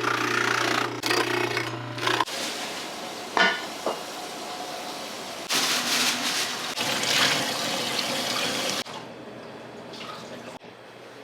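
Restaurant kitchen noise in separate stretches of hiss, like running water or sizzling, with a steady low hum for about the first two seconds. The loudest stretch comes in the middle, and it is quieter near the end.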